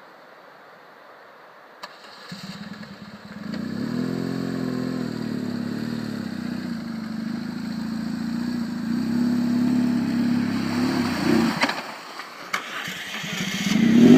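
Adventure motorcycle engine starting about two seconds in, then running steadily with a brief rev. It cuts out a couple of seconds before the end, then starts again and revs up near the end.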